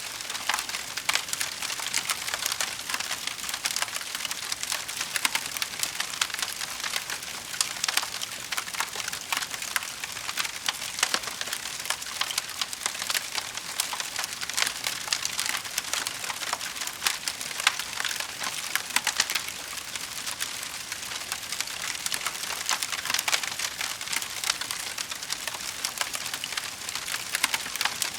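Wood fire crackling in a fireplace: a dense, steady stream of small pops and snaps over a soft hiss, with a few louder snaps scattered throughout.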